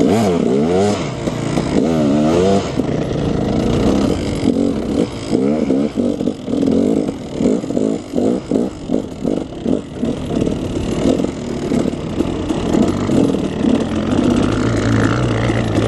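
KTM 300 two-stroke dirt bike engine revving up and down under riding, with a run of quick throttle blips, about two a second, in the middle.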